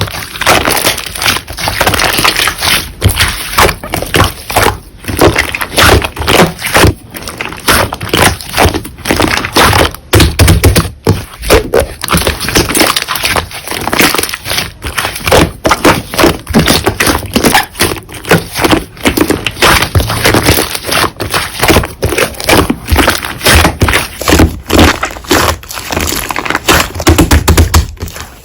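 Slime being squeezed and pressed by hand, giving a continuous, dense crackling and clicking.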